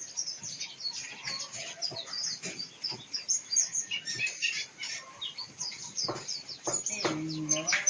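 Oriental magpie-robin (kacer) singing: a fast, continuous run of varied high chirps and whistles. A short low-pitched call comes in about seven seconds in.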